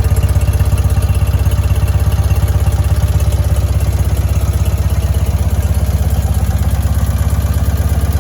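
1968 BMW R50/2's 500 cc flat-twin engine idling steadily shortly after a cold start, with an even, fast pulsing beat.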